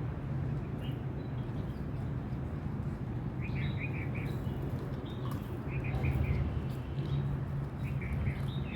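Small birds chirping in short bursts of a few quick notes, three or four times, over a steady low background rumble.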